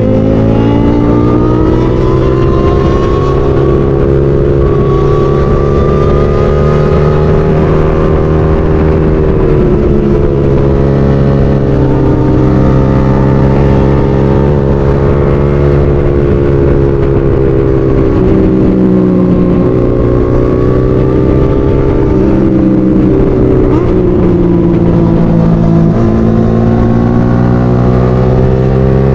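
Motorcycle engine running under way, its pitch rising and falling several times with the throttle, over low wind rumble.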